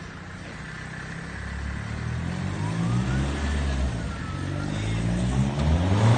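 Fiat Grande Punto's 1.9 JTD four-cylinder turbodiesel (170 hp) under hard acceleration, its note rising in pitch and getting louder. The pitch falls back briefly about four and a half seconds in, then climbs again, as with an upshift.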